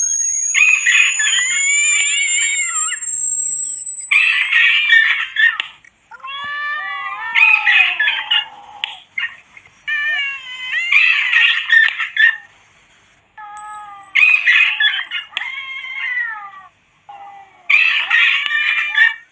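Cats yowling and screeching in repeated bursts of one to two seconds, about six in all, over a thin, high electronic whistle that slowly rises in pitch. This is a rat-repellent sound mix of cat cries and a pest-repeller sweep tone.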